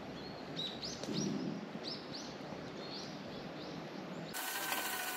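A bird calling a string of short high chirps, about two a second, over a low steady background hiss. About four seconds in it cuts to a louder, even hiss with a faint steady hum.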